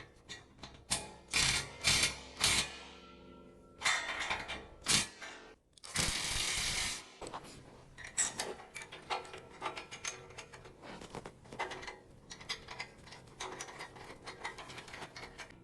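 Metal clicks, knocks and short scraping as small homemade steel C-clamps are fitted onto sheet metal and their nuts tightened. The knocks come irregularly, with a longer scrape about six seconds in.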